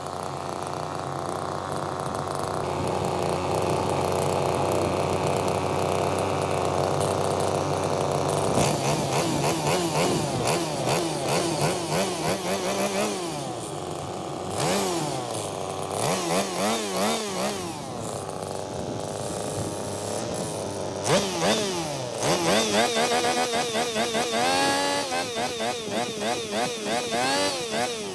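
Small lawn mower engine running, its pitch rising and falling again and again as the throttle is opened and closed, with quicker swings near the end.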